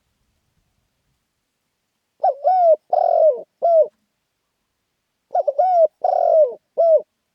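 Spotted dove cooing: two calling phrases a few seconds apart, each of three or four coos, the last note of each phrase dropping off. This is the lively, rousing song that dove keepers prize.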